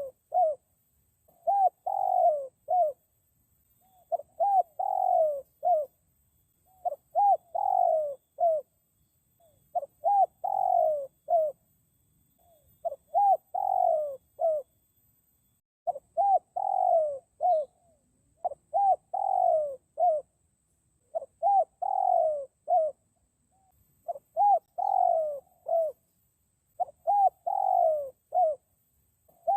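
Spotted dove cooing: the same short phrase of three or four soft coos, repeated steadily about every three seconds.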